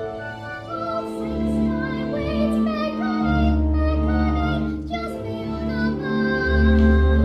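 A solo singer sings a slow, classical-style melody with long held notes and vibrato, over a steady instrumental accompaniment.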